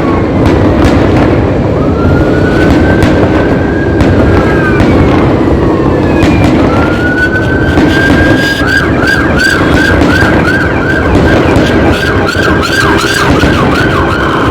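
An emergency-vehicle siren wails in slow rising and falling sweeps, then switches to a fast yelp a little past halfway. Fireworks crackle and bang sharply throughout, over a steady low rumble.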